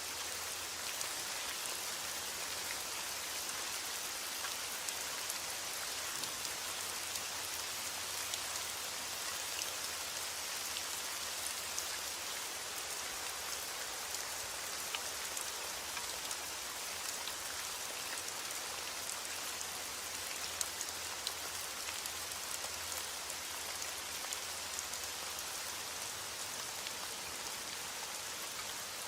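Steady rain falling: an even hiss with many small drop ticks and no thunder.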